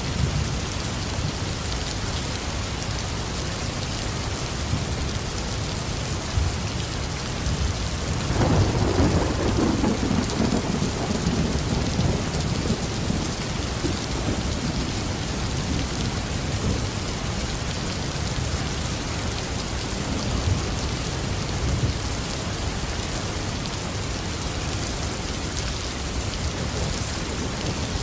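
Heavy rain falling steadily on a roof, with a roll of thunder that rumbles up suddenly about eight seconds in and dies away over several seconds, and fainter rumbles again near the end.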